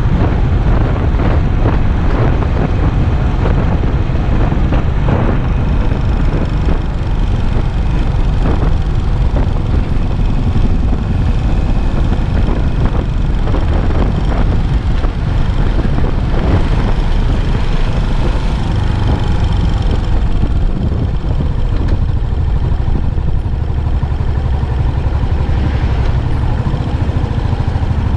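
Yamaha SR400's single-cylinder four-stroke engine running through its stock muffler on a ride in city traffic, heard as a steady, loud low rumble.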